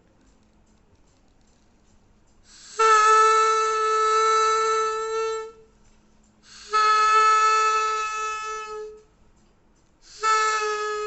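Homemade balloon-membrane blowpipe (a PVC pipe with a balloon stretched over one end, blown through an empty pen tube) blown three times, each a long steady honk of two to three seconds at the same pitch, made to imitate an elephant's trumpet.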